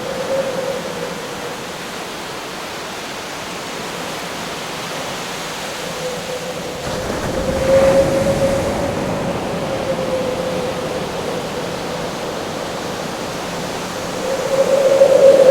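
Howling wind over a steady rush of surf: a wavering, whistling howl at one steady pitch over a wide hiss of noise, swelling about eight seconds in and growing much louder near the end.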